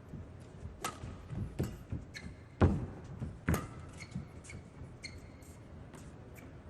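Badminton rally: a series of sharp racket strikes on the shuttlecock, the loudest thud about two and a half seconds in, with court shoes squeaking briefly on the floor several times.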